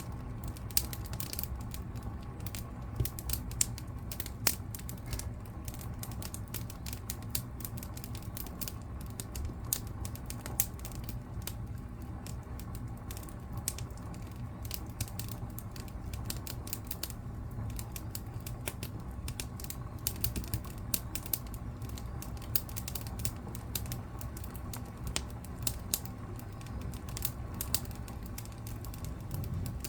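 Wood fire in a fireplace crackling: irregular sharp pops and snaps, some louder than others, over a steady low rumble of the flames.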